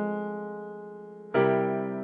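Slow piano chords, each struck and left to ring and fade, with a new chord about a second and a half in.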